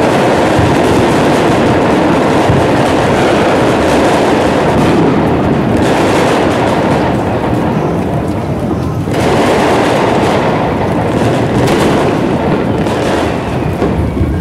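Fireworks going off in a dense run of overlapping bangs and crackles, thinning briefly about five and nine seconds in.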